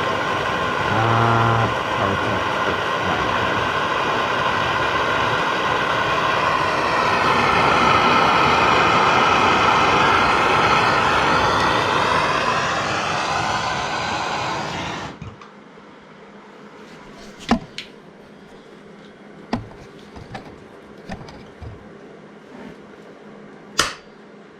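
Honda ATC three-wheeler's air-cooled single-cylinder four-stroke engine running through an aftermarket exhaust, revving up and holding higher revs in the middle, then shut off suddenly about fifteen seconds in. A few light clicks and knocks follow.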